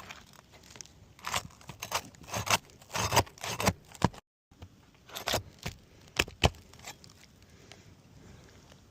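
Roofing work on asphalt shingles: irregular scraping and crinkling of shingles and loose roofing nails jingling, with a few sharp knocks. The sound drops out completely for a moment about four seconds in.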